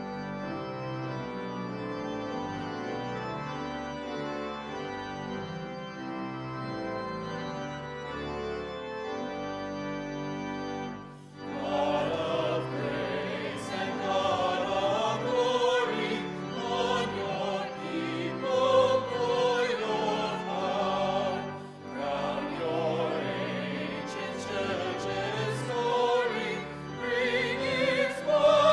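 Organ playing held chords, then after about eleven seconds singing with vibrato comes in over the organ, a choral or sung church piece.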